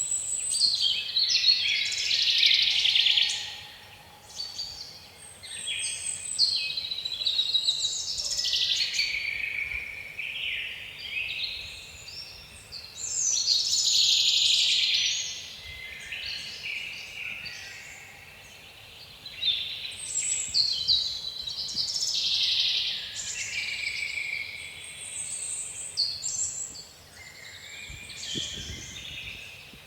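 Songbirds singing almost without pause in quick, varied chirping phrases that swell and fade every few seconds, over a faint steady background hiss.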